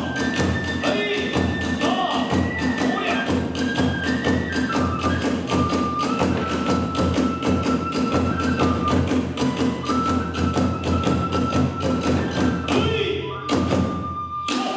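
Kagura hayashi accompaniment: a bamboo flute holds long notes that step from pitch to pitch over fast, even strikes of drum and hand cymbals. The music stops abruptly near the end with a final strike.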